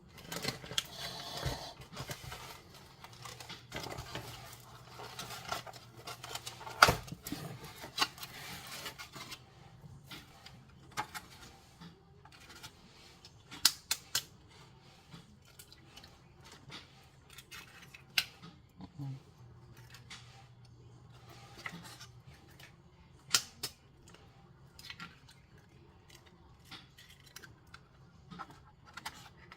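Rustling and handling noises for several seconds, then scattered sharp clicks and knocks.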